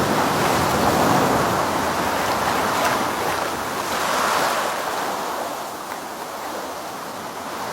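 Ocean surf washing onto a beach, swelling twice and then easing off, with some wind on the microphone.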